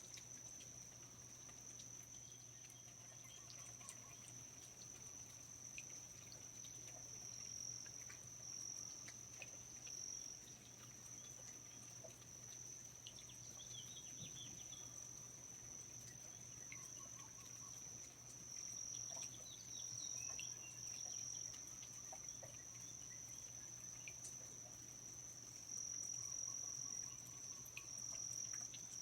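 Rainforest insect chorus: a steady, high-pitched trill that never breaks, with scattered faint chirps and ticks over it, a little louder in the second half.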